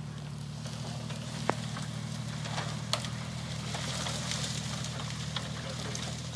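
Engine of a Jeep rigged as a lawnmower running steadily, with irregular crackling over it and two sharp clicks, about a second and a half in and again about three seconds in.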